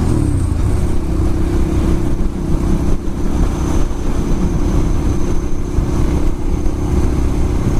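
Ducati Monster S2R 1000's air-cooled L-twin engine running at a steady cruise under a constant rush of wind, its note dipping briefly at the start and then holding steady.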